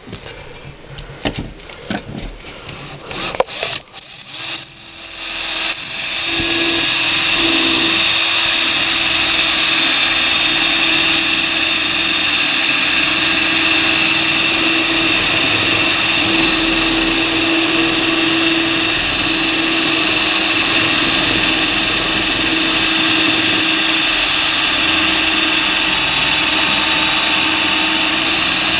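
A few clicks and knocks, then about five seconds in a power drill starts and runs steadily under load, its bit cutting into the exhaust port wall of a Yamaha Tri-Moto 175 two-stroke cylinder to open a triple port.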